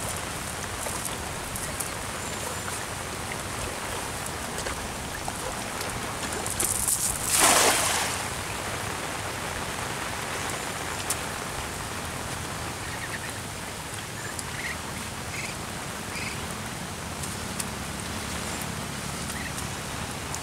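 Steady rain pattering on the surface of a pond. About seven seconds in, a thrown cast net lands on the water with a brief rushing splash, the loudest sound.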